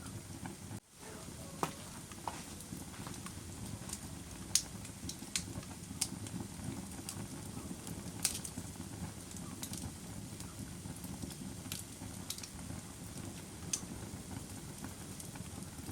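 Campfire burning with a steady low rush, broken by scattered sharp crackles and pops from the wood, about one every second or two. The sound drops out briefly about a second in.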